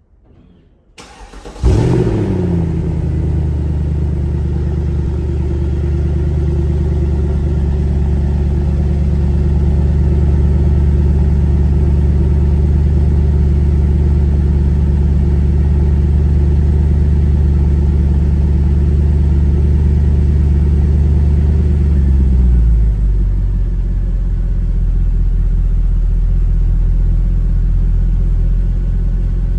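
2007 Mercedes-Benz CLK63 AMG's 6.2-litre V8 cold-starting: after a short crank it catches with a loud flare about a second and a half in, then holds a high, steady cold fast idle. About 22 seconds in the idle drops to a lower, steady note.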